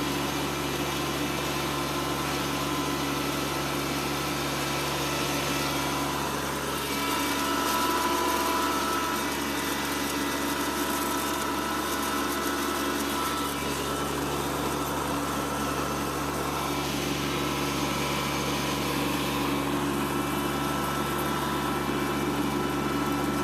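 Kubota B2601 compact tractor's three-cylinder diesel engine running steadily under the load of a drag harrow.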